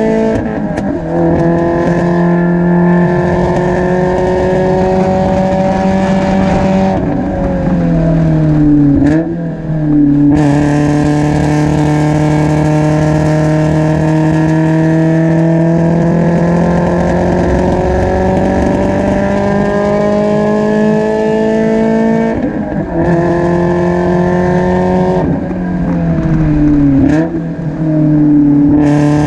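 Spec Miata four-cylinder engine heard from right above its exhaust, climbing slowly in pitch under full throttle. The pitch drops at a few points where the driver shifts or lifts for corners. The engine has an intermittent misfire and is well down on power.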